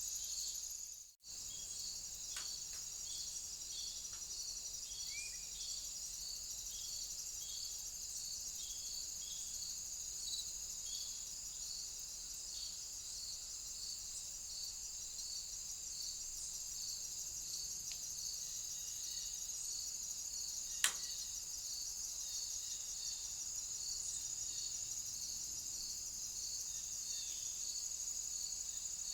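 Crickets or other night insects calling outdoors: a continuous high, pulsing trill with a train of evenly spaced chirps under it. The sound drops out briefly about a second in, and a single sharp click comes about two-thirds of the way through.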